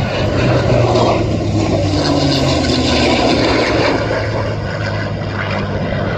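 Jet roar from the F-35A Lightning II's single afterburning turbofan engine, a loud, continuous rushing noise with a low steady hum under it.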